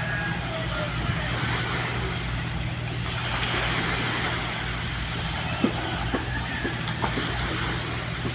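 Ship's engine droning steadily in harbour, with faint voices and a few sharp knocks in the second half.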